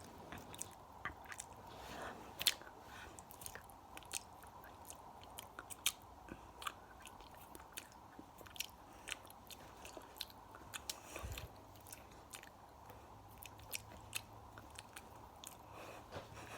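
Close-microphone ASMR mouth and hand sounds: a dense run of irregular sharp clicks and crackles.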